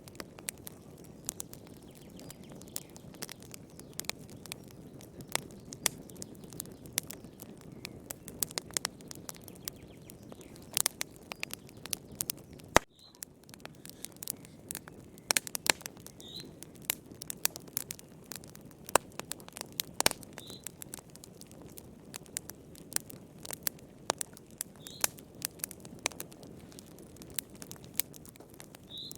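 Wood fire burning in a fireplace: a steady low rumble and hiss with irregular sharp crackles and pops. A faint short high chirp comes every few seconds, and the sound cuts out briefly about halfway through.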